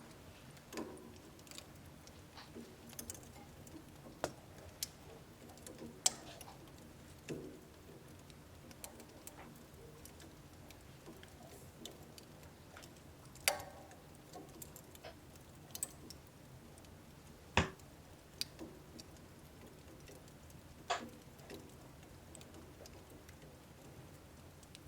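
Wood fire burning in a wood stove: irregular crackles and sharp pops of burning firewood over a faint low hiss, with a few louder snaps.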